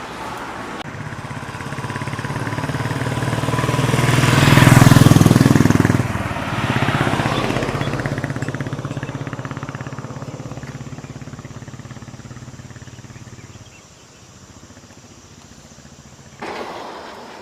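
Motorcycle engine running, growing louder to a peak about five seconds in, then fading away. Near the end it gives way to a quieter outdoor background.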